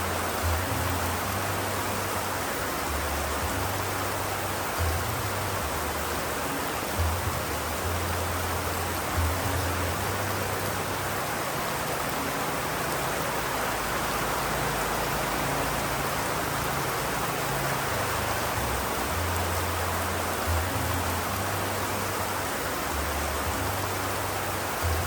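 Steady, even rain hiss with no breaks. A low rumble comes and goes underneath, and there are a few soft thumps.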